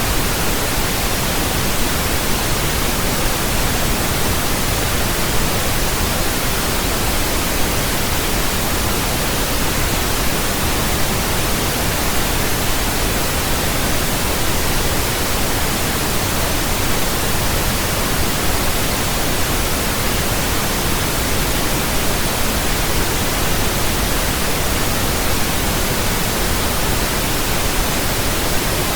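Steady pink noise: an even, unchanging hiss with a soft low rumble beneath it.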